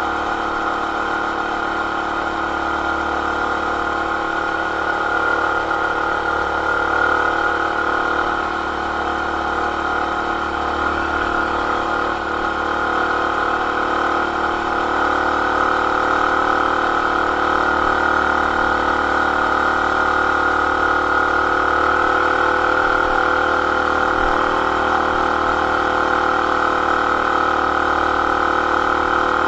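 A BT200X mini bike's small single-cylinder engine, fitted with an aftermarket intake, header and RLV exhaust, runs steadily at an even speed with no clear revving.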